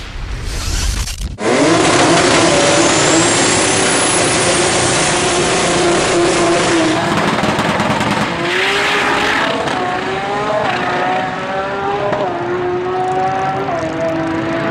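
Race car engine at high revs under hard load, starting suddenly and loud, its pitch climbing, holding, then dropping and climbing again several times, over a dense rush of noise.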